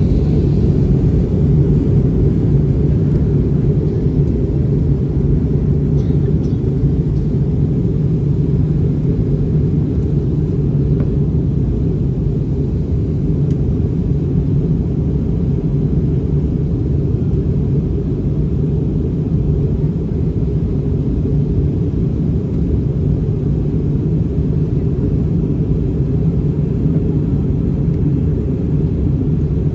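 Steady low rumble of engine and airflow noise inside the cabin of an Airbus A320-family airliner in flight.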